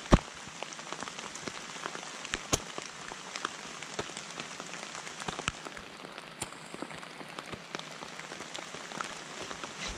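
Steady rain pattering on wet leaf litter, with many scattered drop hits. Just after the start there is a single sharp thump as a rolled poncho lands on the ground.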